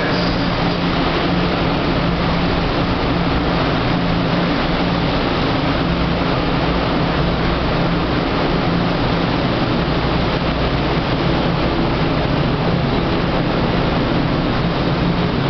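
Blue sleeper coaches of the Akebono limited express rolling past along the platform as the train pulls in: a steady rumble of wheels on rails with a low hum beneath it.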